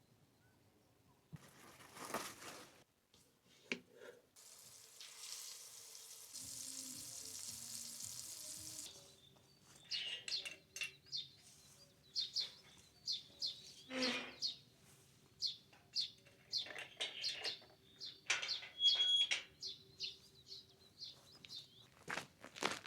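Small songbirds chirping in quick, repeated short high calls through the second half. Before them come a few seconds of steady rushing noise.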